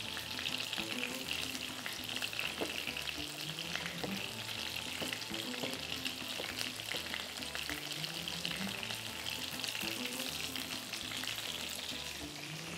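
Breaded chicken strips shallow-frying in hot oil in a frying pan: a steady sizzle full of fine crackles.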